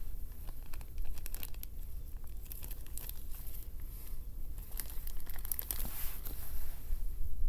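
Irregular crinkling and crackling, a dense run of small sharp clicks like material being crumpled or torn, over a steady low rumble.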